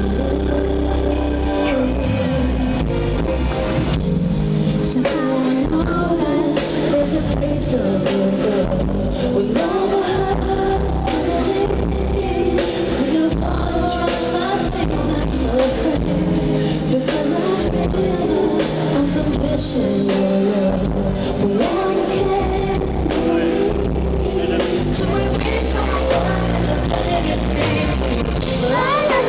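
Live band music with a singing voice over it.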